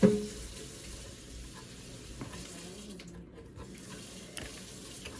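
Water running from a tap into a sink: a steady rush that briefly thins about three seconds in.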